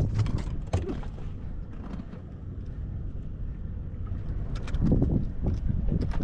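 Steady low rumble, with a few sharp clicks and knocks of fishing gear being handled, most of them about two thirds of the way through.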